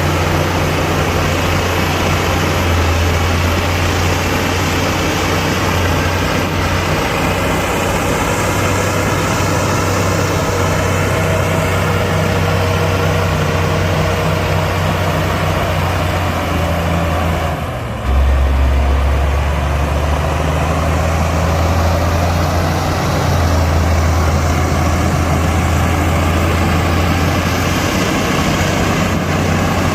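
Heavy earthmoving machine's diesel engine running steadily with a deep drone. It dips briefly about eighteen seconds in, then comes back louder and lower.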